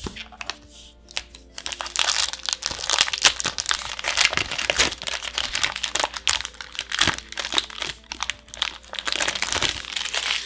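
Foil booster pack wrapper crinkling loudly as it is handled and torn open: a dense run of crackles that starts suddenly, with soft background music underneath.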